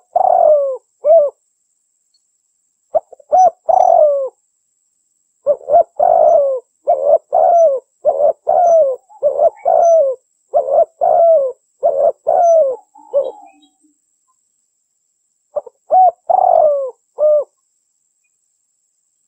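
Female spotted dove (derkuku) cooing in short phrases of falling notes, with pauses between the phrases and one longer run of coos in the middle. This is the kind of call used to lure male doves.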